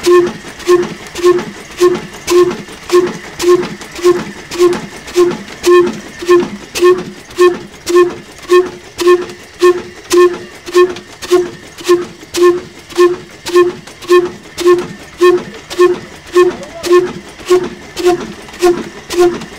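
Old Ruston Hornsby black diesel engine running steadily, its exhaust beat thumping evenly about twice a second.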